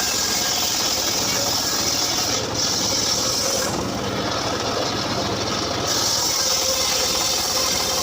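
Homemade engine-driven circular saw rig running steadily as it saws a mahogany log, with a loud high hiss over the engine. The hiss drops away for about two seconds midway, then returns.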